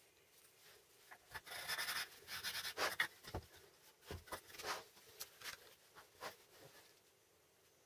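Faint scraping and rubbing with light taps and clicks on wood, in short irregular strokes, busiest from about one and a half to five seconds in.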